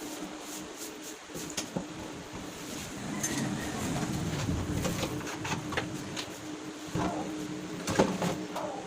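Handling sounds of hand work on flight case parts: a rougher scraping stretch in the middle, then scattered clicks and knocks near the end, over a steady hum.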